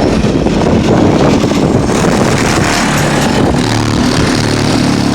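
Car-audio system with two Ascendant Audio Chaos 12-inch subwoofers playing bass-heavy music very loud, with held low bass notes through the second half.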